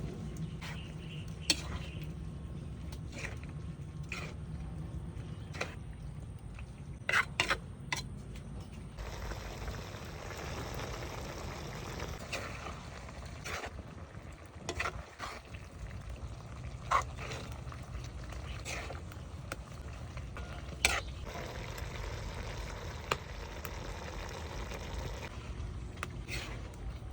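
Stovetop cooking in a pan: a low frying sizzle with scattered sharp taps and clinks of a utensil against the pan.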